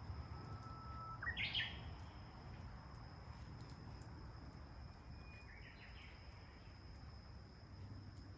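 Wild birds calling twice: a thin whistle that jumps into a loud chirping phrase about a second in, and a softer call a little past the middle. Under them runs a steady high insect trill over a low outdoor rumble.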